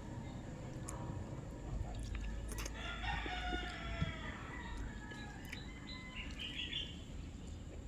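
A rooster crowing, about three seconds in.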